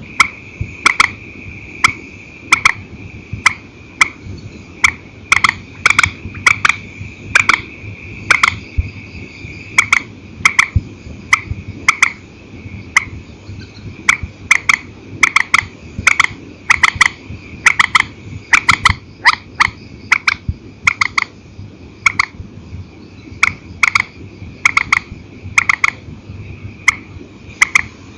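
Purple swamphen calling: a long series of short, sharp calls, one or two a second, some single and some in quick pairs. A steady high-pitched whine runs underneath.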